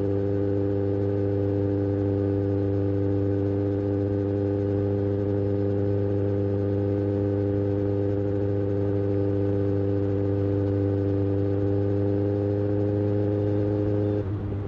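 Kawasaki Ninja ZX-6R inline-four engine with an IXIL slip-on exhaust, held at a steady raised rev. The throttle is released near the end and the revs drop.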